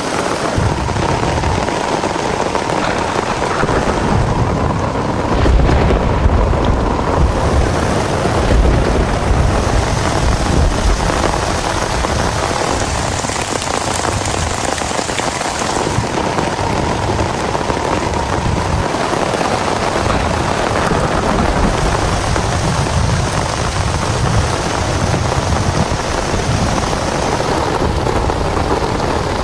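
Heavy rain pouring steadily in a thunderstorm, with a deep rumble of thunder swelling about five to nine seconds in.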